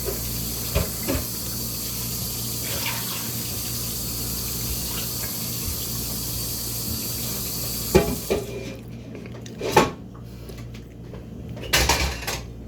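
A steady rushing hiss that cuts off suddenly about eight seconds in, followed by three sharp knocks.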